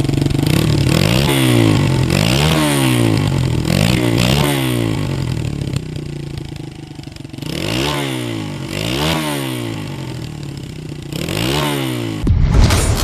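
Honda XR100's small four-stroke single-cylinder engine being revved in short blips, about six times, the pitch climbing and dropping back to idle each time. Near the end the revving stops and a short low rumble follows.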